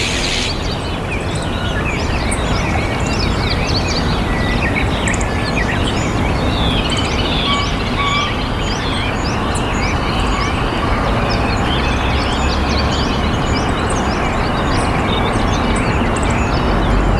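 Many small birds chirping and calling in short, rapid notes over a steady low rumble of outdoor background noise.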